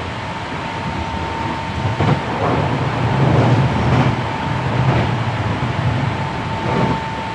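Hankyu 7300 series electric train running at speed, heard from inside a car: steady rail and running noise under a constant high whine. From about two seconds in, a heavier low rumble with a handful of sharp wheel knocks joins for several seconds, then fades.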